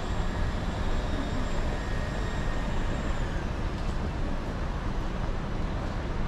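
Road traffic noise, with vehicles passing. A thin high whine runs through it and drops in pitch a little after three seconds.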